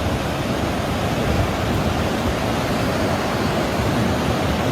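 Steady, loud rush of a swollen river in flood, an even roar of fast water with no break.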